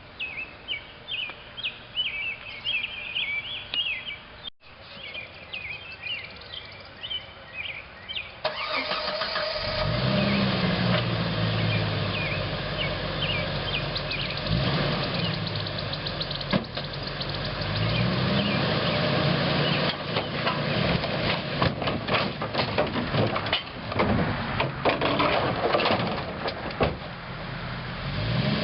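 Birds chirping for the first several seconds, then a Jeep engine starts up and revs again and again as it pulls on a chain to tear the sailboat's bow section off, with scattered sharp cracks.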